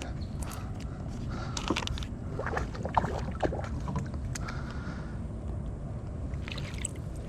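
Sounds of a kayak on a river: a steady low rumble of wind and water, with scattered short knocks and clicks through the first five seconds and again near the end.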